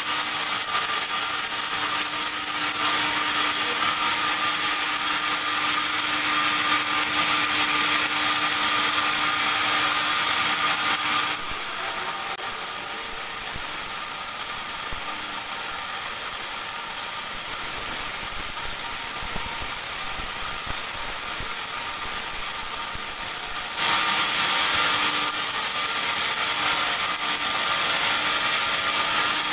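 Band sawmill running and sawing a teak log into boards: a steady mechanical noise with a low hum, dropping a little about eleven seconds in and rising again about twenty-four seconds in.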